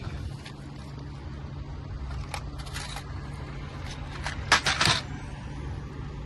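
Handling noise from small hard parts: a few sharp clicks and rattles, loudest in a short cluster about four and a half seconds in, over a steady low hum.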